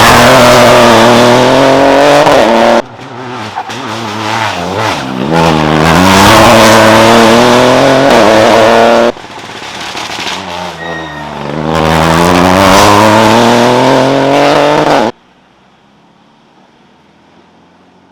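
Rally cars driven hard past the microphone, engines revving with the pitch climbing and dropping through gear changes. There are three loud passages, each cut off abruptly, and after about fifteen seconds only a faint steady hum is left.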